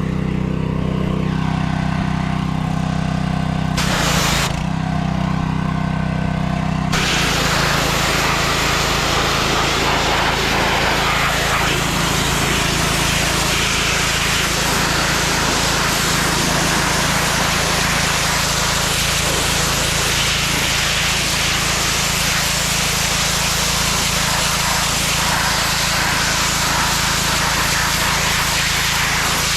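A small engine running steadily at an even speed. About seven seconds in, a loud, even rushing hiss joins it and continues.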